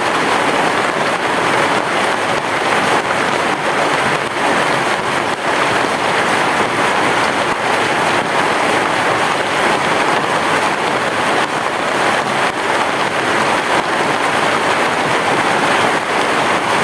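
Heavy rain falling steadily on a roof: an even, unbroken hiss of many drops, with no thunder in this stretch.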